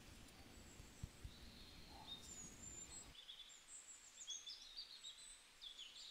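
Faint birds chirping over a quiet background hiss. A low rumble under it drops away about three seconds in.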